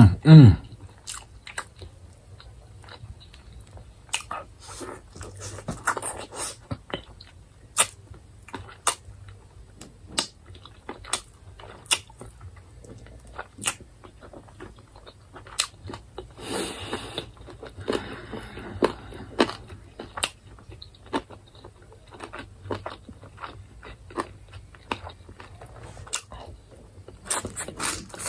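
Close-up mouth sounds of a person eating roast chicken: chewing, with frequent sharp wet clicks and smacks scattered irregularly. It opens with a short, low, hummed sound that falls in pitch.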